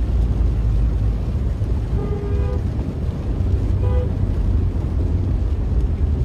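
Steady low rumbling noise with a horn giving two short toots, the first about two seconds in and a shorter one about four seconds in.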